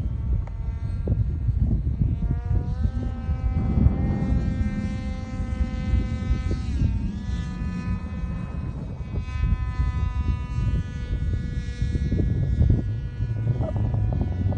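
RC airplane's motor and propeller whining in flight, the pitch stepping up about two and a half seconds in and dipping briefly near the middle. Wind rumbles on the microphone underneath.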